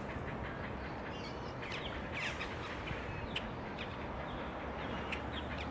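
Small birds chirping and calling, many short chirps at irregular intervals over a steady background hiss.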